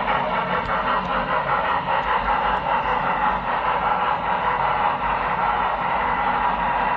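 Model train's small electric motor and wheels running steadily along the track, heard close up from on board the train, with a few faint clicks.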